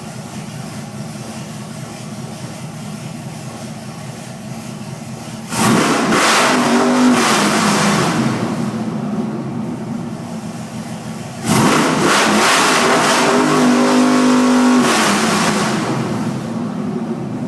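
2004 Chevy 2500's 6.0 V8 idling, then snapped to wide open throttle twice, about five seconds in and again about eleven seconds in, each rev held for a few seconds before dropping back to idle. The owner says the engine pauses around 4000 rpm on these revs and sets a misfire code each time, even after new sensors, plugs, wires, coils and throttle body.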